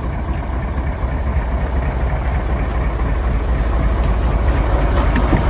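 Mitsubishi 8DC11 V8 diesel engine of a 1995 Fuso Great dump truck running steadily at idle.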